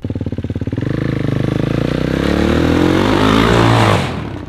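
Dirt bike engine accelerating hard, its pitch and loudness rising steadily, then dropping away suddenly about four seconds in.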